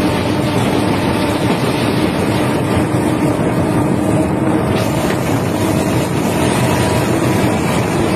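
Two diesel-hauled trains running side by side on parallel tracks. The neighbouring Bangladesh Railway diesel locomotive's engine and the wheels on the rails make a loud, steady rumble.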